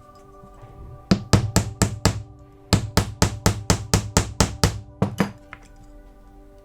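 Light hammer taps on a diecast metal toy truck body, straightening its bent rear footboard: about five quick strikes, a short pause, then about ten more at roughly four a second. Soft background music plays underneath.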